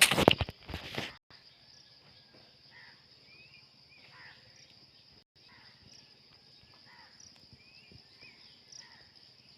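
Steady high-pitched insect trill with a few faint short bird chirps, after about a second of loud rustling and crunching at the start.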